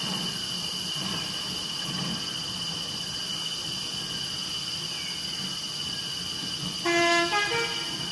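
Steady high-pitched insect chorus, like crickets or cicadas. About seven seconds in, a brief horn-like toot lasting about a second shifts in pitch and is the loudest sound.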